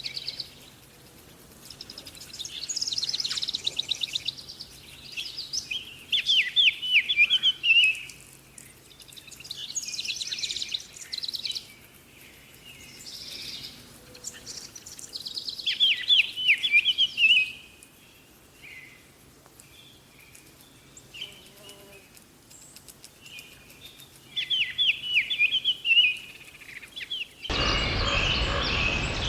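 Songbird singing: repeated phrases of fast high trills and runs of quick downward-sweeping notes, recurring every few seconds with quiet gaps between. Near the end it cuts suddenly to a dense, steady rushing noise.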